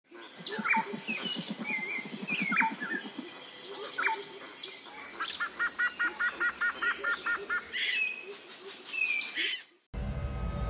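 Several birds calling: sharp downward-swooping notes, then a quick run of about ten repeated double notes, over a low pulsing in the first few seconds. The birdsong cuts off suddenly near the end as music begins.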